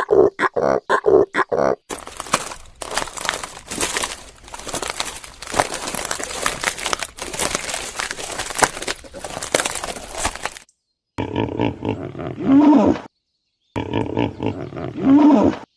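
A run of animal calls cut together from several clips, the later ones big-cat roars, with silent gaps between clips.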